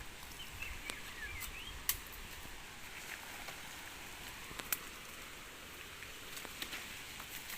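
A small bird giving several short, quick chirps in the first second and a half, then a few sharp isolated clicks over a faint steady hiss.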